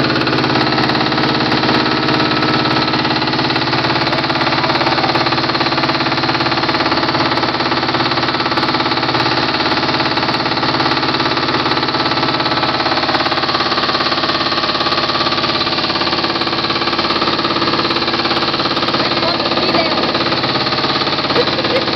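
Motorboat engine running at a steady speed, heard from aboard the boat.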